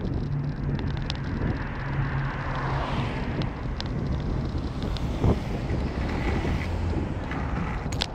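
Car driving, with a steady engine hum and road noise. The engine note drops lower about halfway through, and there is a single thump just after.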